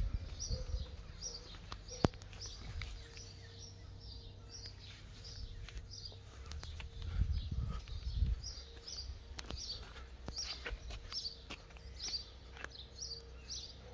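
A small bird chirping over and over, short high chirps about one and a half a second, over a low outdoor rumble that swells about seven seconds in. A single sharp click sounds about two seconds in.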